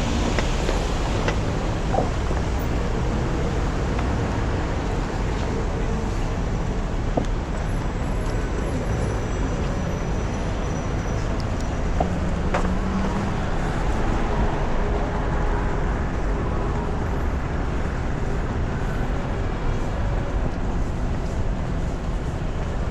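Steady road traffic noise of a city street, with a few faint clicks and knocks.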